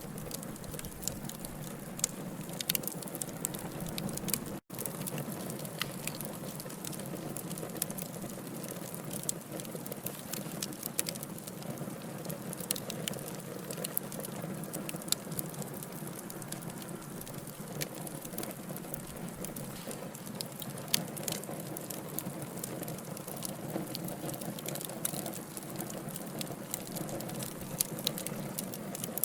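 Burning logs in a wood fire: a steady soft hiss with frequent sharp crackles and pops at irregular moments. The sound drops out for an instant about four and a half seconds in.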